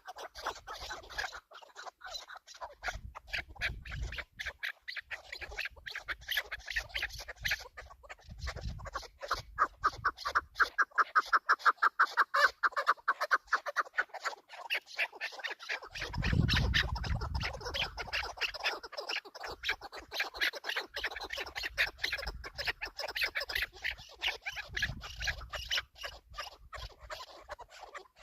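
Chukar partridges calling: long runs of rapid clucking notes, loudest and densest in a fast burst about halfway through, with a brief low rumble a little later.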